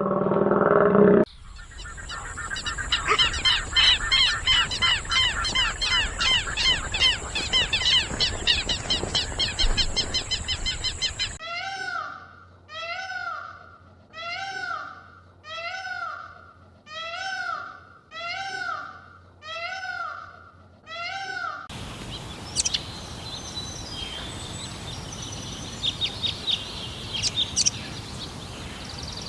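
Three cut-together clips of animal and bird calls. First a dense rapid chirping under a steady high hiss. Then eight evenly spaced calls, each rising and falling in pitch, about one every 1.3 seconds. Then scattered sharp chirps.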